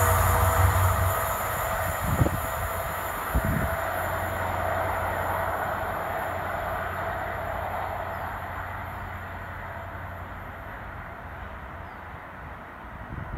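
Class 43 HST diesel train receding, its running noise fading steadily into the distance, with a low engine hum dropping away about a second in and two dull thumps a couple of seconds in.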